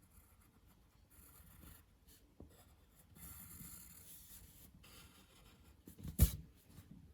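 Scratching strokes of a drawing tool on paper, in short runs, as a picture is sketched. About six seconds in there is a single sharp tap, the loudest sound.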